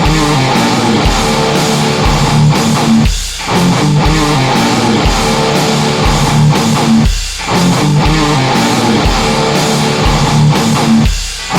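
Heavy metal instrumental: a distorted electric guitar riff over steady low thumps about one and a half a second, with a brief break in the riff about every four seconds.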